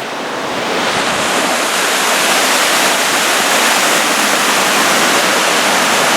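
Rushing water of a canyon waterfall, a dense steady rush that swells louder over about the first second and then holds.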